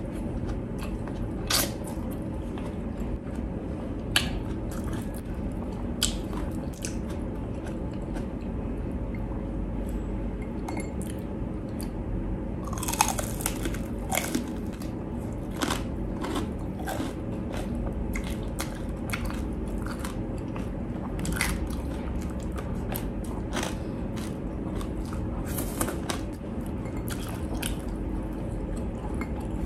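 Close-up crunching and chewing of crispy deep-fried pork skin, with sharp crackles scattered throughout and a quick run of them about thirteen seconds in.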